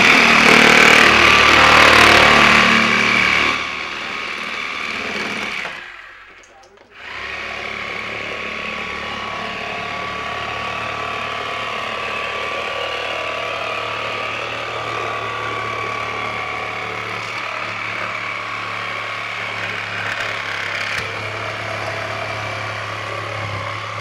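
A power tool cutting loudly for about three and a half seconds, then dying away. After a brief drop comes a steady mechanical running sound with a low hum and a faint whine.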